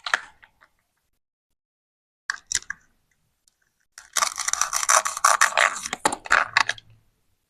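Plastic toy fruit being cut with a plastic knife: a couple of light plastic clicks, then about three seconds of rasping scraping as the blade saws through.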